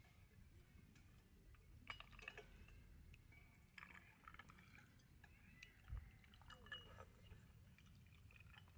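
Near silence with a few faint clinks and light knocks of tableware being handled.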